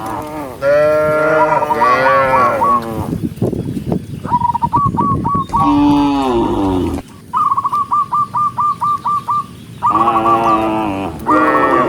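Cows mooing, several calls one after another with short gaps. A fast run of high repeated notes comes a little past halfway, between the calls.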